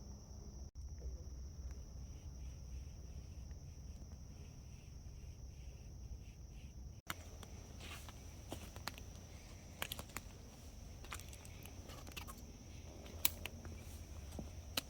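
Steady high-pitched insect chorus of a swamp at dusk, with a faint pulsing trill in the first half. From about halfway, scattered clicks and crackles join in, and the sound drops out briefly twice.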